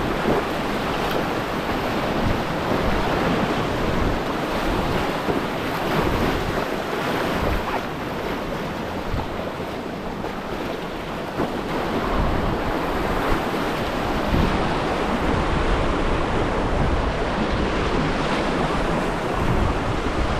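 Whitewater river rushing steadily, heard from a kayak, with wind buffeting the microphone in low rumbling gusts.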